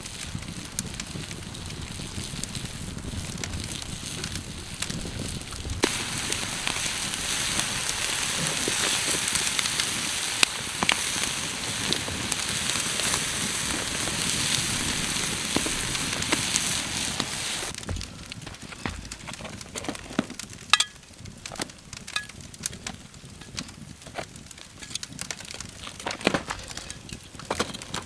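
Campfire burning, crackling and popping, with a loud steady sizzling hiss from about six seconds in until about eighteen seconds in. After the hiss drops away, sharp snaps and pops of the burning wood stand out.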